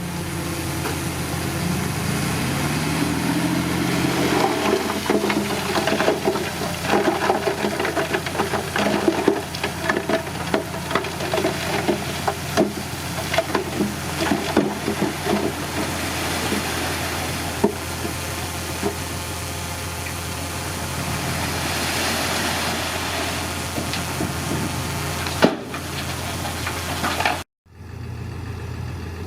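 Heavy diesel engine of a bulldozer running steadily, with many sharp clanks and rattles over the middle stretch. The sound cuts out briefly near the end.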